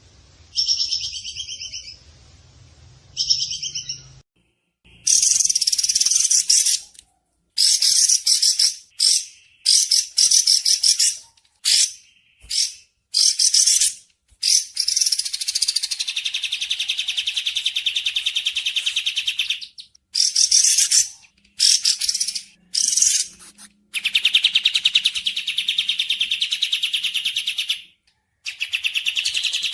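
Bird calls from a song-training recording: a short whistled call near the start, then a run of loud, rapid, buzzy trills in bursts of one to several seconds with short gaps between them.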